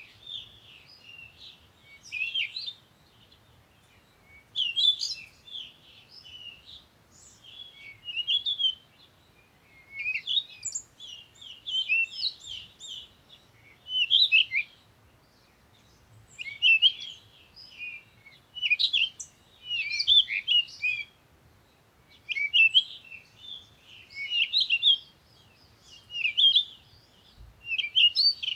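Birds chirping and singing in bursts of quick, high notes every second or two, over a faint low rumble.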